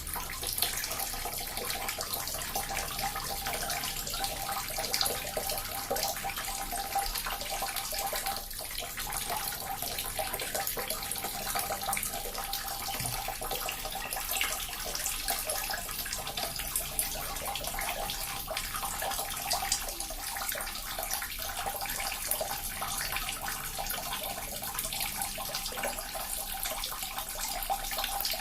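Small water fountain running steadily: a continuous trickle and splash of falling water with many small, rapid splashes.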